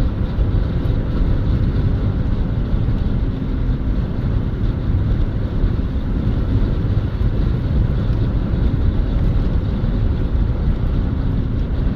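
A car driving: steady engine and road rumble, heard from inside the car.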